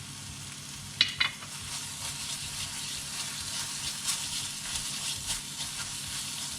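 Ground spice paste with chili sizzling and crackling as it fries in hot oil in a pan, with two sharp clinks about a second in.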